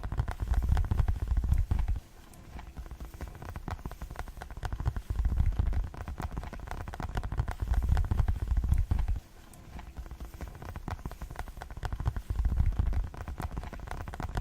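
Fast ASMR tapping: rapid, dense fingertip taps on objects. In several stretches of a second or two each, a deep low thudding sits under the taps.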